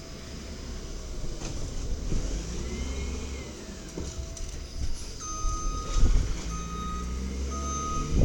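Side-loader garbage truck's diesel engine running, with its reversing alarm beeping steadily at about one beep a second from about five seconds in. A loud knock comes about a second after the beeping starts.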